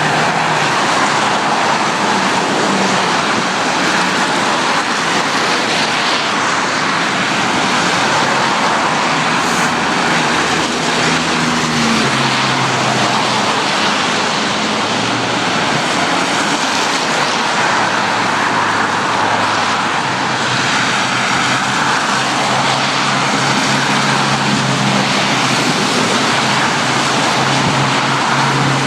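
Road traffic passing: steady tyre noise from cars on the road, with the low hum of engines swelling as vehicles go by, loudest near the end.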